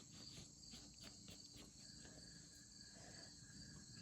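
Faint chorus of many crickets chirping steadily in a high, pulsing trill.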